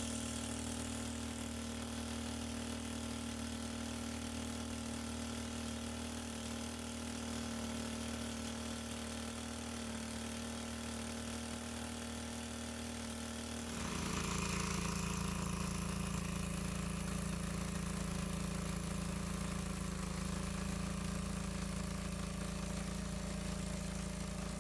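A small engine running steadily. About 14 seconds in its note shifts to a lower, steadier hum and it gets slightly louder.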